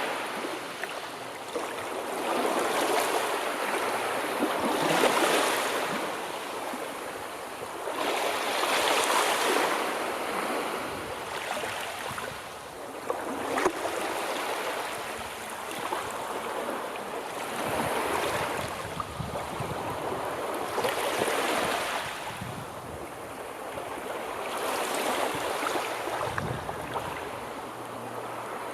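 Sea waves breaking and washing on a shore: a rush of surf that swells and falls away about every three to four seconds, with no tones in it.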